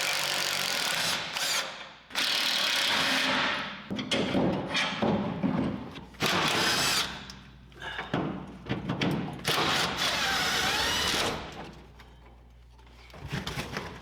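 A power tool running in repeated bursts of one to two seconds with short pauses between them, then a short lull near the end before it starts up again.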